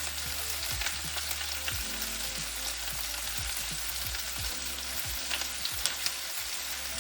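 Chicken drumsticks frying in oil in a pan, a steady sizzle with scattered small crackles of spitting fat.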